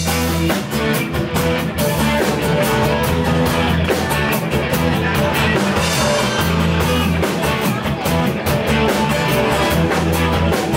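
Live rock band playing an instrumental passage between verses, with guitar and drum kit.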